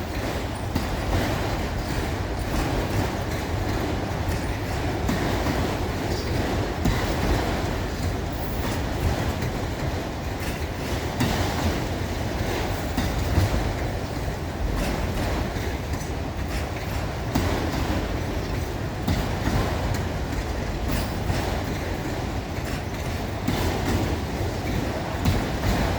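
A train's cars rolling past on the track: a steady rumble, with wheels clicking over the rail joints.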